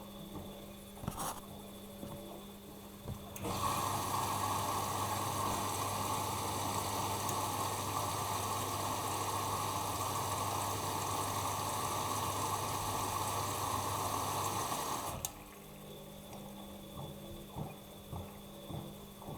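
Bosch Maxx Advantage WFCX2440 washing machine taking in water: the inlet valve opens about three seconds in with a low hum, water rushes steadily into the machine, and it cuts off abruptly near the end, typical of the fill stage early in the wash.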